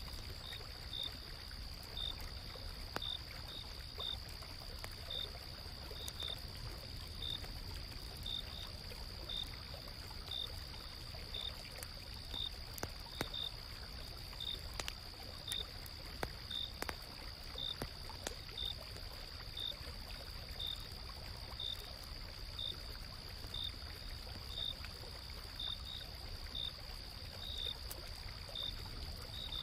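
Autumn night insects: one keeps up a steady high-pitched trill while a cricket chirps roughly once a second. A gently flowing stream runs beneath them, with scattered faint crackles from a campfire.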